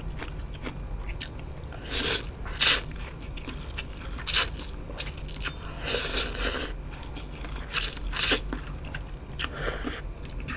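A person eating: a series of crunching bites and chewing, with sharp crunches about two, four and eight seconds in and a longer crunch around six seconds.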